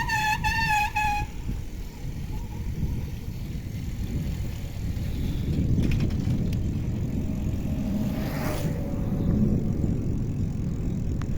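Wind and road rumble on the microphone of a moving bicycle. A wavering high whistle-like tone stops about a second in, and a vehicle passes with a brief whoosh about eight seconds in.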